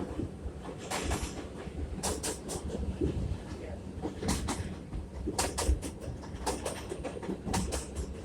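R62A subway train running along the track: a continuous low rumble with frequent irregular sharp clacks of the wheels over the rail.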